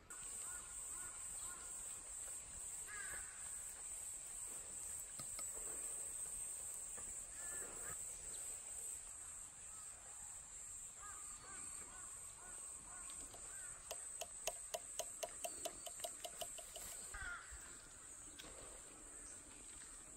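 Wild birds calling in a mountain forest: scattered short calls, then a quick run of about a dozen harsh notes about fourteen seconds in, over a steady high-pitched drone.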